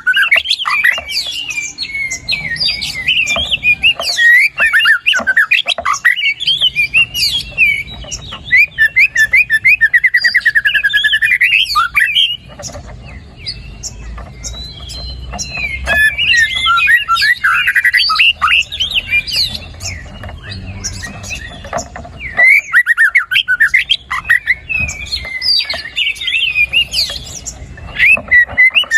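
White-rumped shama (murai batu) singing in full, continuous voice: long runs of varied whistles, chattering phrases and rapid trills, with mimicked songs of other birds woven in. It comes in loud bursts separated by a few short, quieter lulls.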